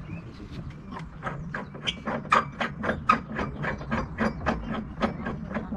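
Rapid, evenly spaced metallic clicking, about five clicks a second, from a hand tool turning one of a pergola's adjustable screw feet to level the frame; it starts about a second in.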